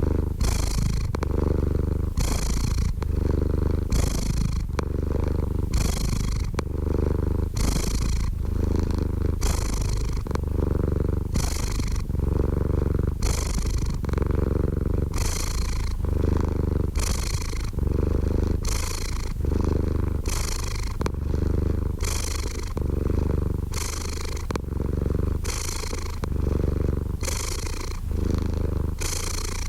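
Domestic cat purring steadily close up: a continuous low rumble with a raspy swell roughly once a second as the cat breathes in and out.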